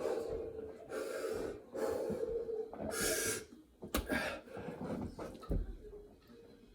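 A person breathing hard with loud, wheezing gasps, about one breath a second, worn out in the middle of a long set of burpees. About four seconds in there is a sharp knock, then a low thud, and the breathing gets quieter near the end.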